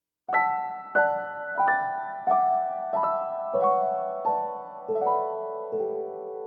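Background piano music: a slow melody of single struck notes, about one every two-thirds of a second, each ringing out and fading, stepping downward in pitch. It starts after a brief silence.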